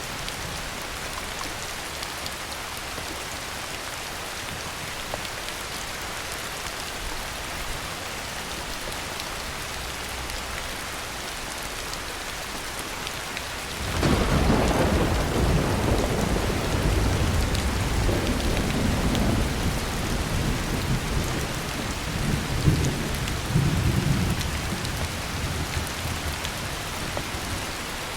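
Heavy rain falling steadily. About halfway through, thunder breaks in suddenly and rolls on as a low rumble for about ten seconds, with a couple of louder cracks near the end before it fades back under the rain.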